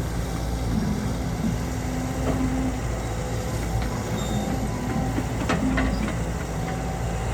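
Heavy diesel machinery running with a steady low engine rumble. A few sharp clanks come a little past halfway.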